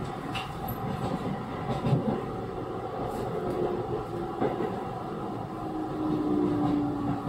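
Running noise inside a Chiba New Town Railway 9100-series WN-drive motor car: steady wheel-on-rail rumble with a few light knocks, and a drive whine that falls slowly in pitch in the second half.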